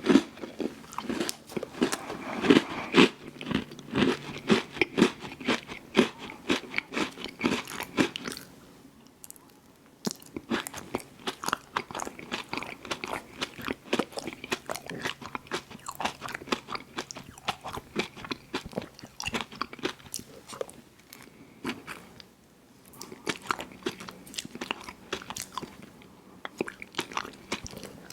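A person biting and chewing ice cream sandwiches: a rapid run of crunchy chews, louder in the first eight seconds, broken by two short pauses.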